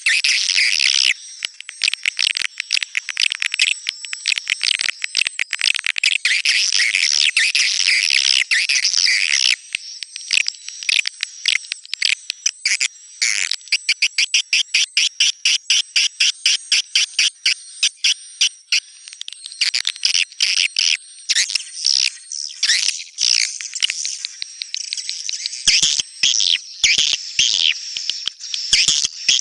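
Swiftlet calls played as a 'netral' swiftlet-house sound: dense high-pitched twittering chatter mixed with rapid trains of clicks. Faint steady high whistle tones run underneath. The chatter thins out after about nine seconds into bursts of quick clicks and twitters.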